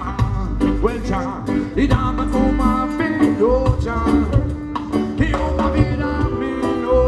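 Live band playing a ska/reggae-style groove, with heavy bass, drums and melodic instrument lines.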